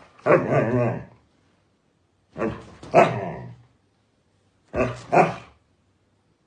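A dog barking in three short bouts, each a second or less long and about two seconds apart; the first is drawn out with a wavering pitch, the later two are double barks.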